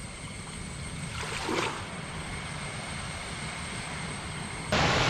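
Steady rushing noise with a short rising sound about a second and a half in; a louder rush starts suddenly near the end.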